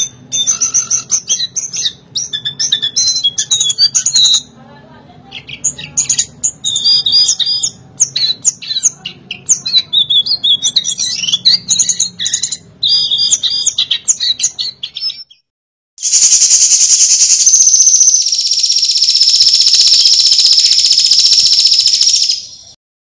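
Lesser shortwing (jongkangan, cingcoang coklat) singing a fast, varied run of high chirping notes with short breaks. After a brief silence it gives way to a loud, steady high-pitched buzz that lasts about seven seconds, dips slightly in pitch partway through, and stops abruptly.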